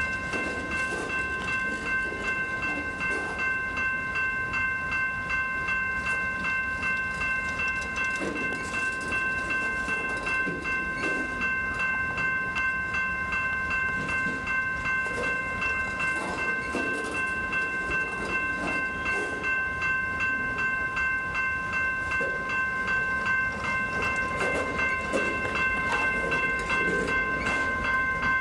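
A train passing close by, its wheels clattering and rumbling on the rails, with a steady high-pitched whine of several tones held throughout.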